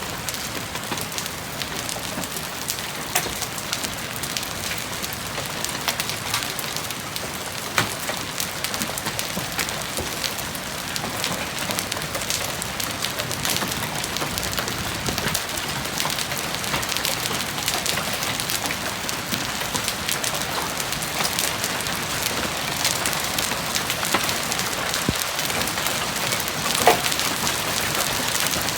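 Hailstones falling and striking hard surfaces in a dense, steady patter of clicks, with a few sharper, louder hits, the loudest near the end.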